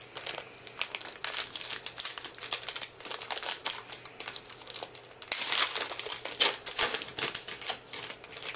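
Trading card pack wrapper being torn open and crinkled by hand, an irregular run of crackling rustles with denser bursts about five and six and a half seconds in.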